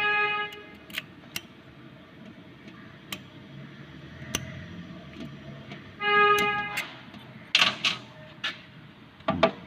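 A steady pitched tone sounds twice, each time for under a second, about six seconds apart, amid scattered sharp clicks and knocks.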